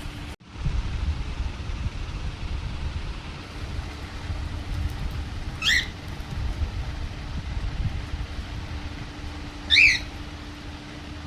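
A pet parrot squawks twice, two short sharp calls about four seconds apart, the second louder. Under them runs a steady low rumble with a faint hum.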